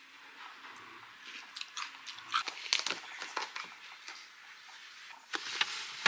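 Wet scrubbing and wiping during cleaning: a run of short crackly scrapes and squeaks, thickest in the middle and again near the end.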